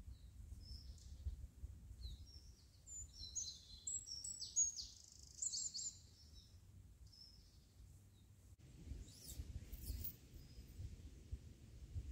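A songbird singing a quick run of high, chirping notes over a low outdoor rumble; the song stops a little past halfway through.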